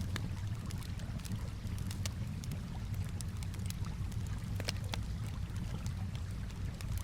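Wood fire crackling with sharp, irregular pops over a steady low wash of calm water.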